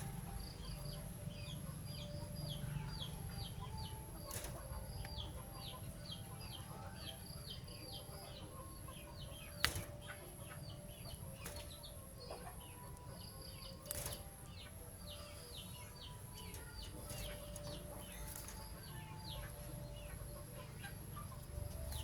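Birds calling in quick, short, falling chirps repeated several times a second, over a steady low rumble, with two sharp clicks partway through.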